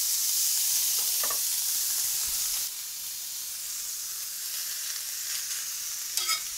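Leftover roast chicken sizzling in butter on a hot cast iron griddle. The sizzle steps down a little about two and a half seconds in. Near the end a metal spatula scrapes and clicks against the griddle.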